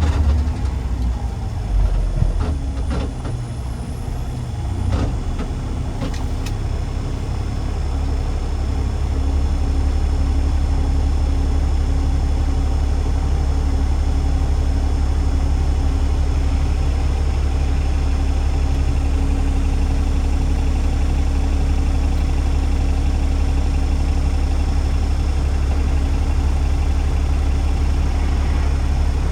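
Garbage truck engine running with a steady, heavy low drone. A few clicks and knocks come in the first several seconds.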